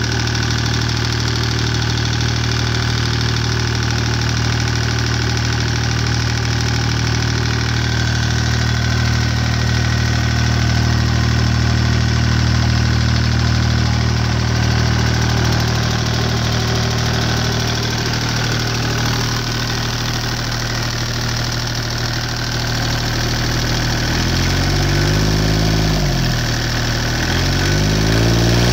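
Deutz 2009L03 three-cylinder direct-injected diesel running steadily while it warms up after a cold start. Near the end it is revved up and let back down twice.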